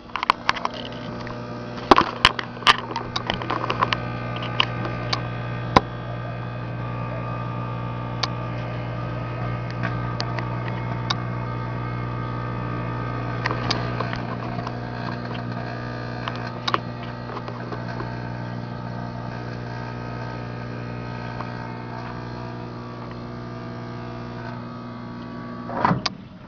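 Microwave oven running with a loud, steady electrical hum, with sharp crackles and snaps of arcing inside it as it burns itself out. The hum stops suddenly near the end.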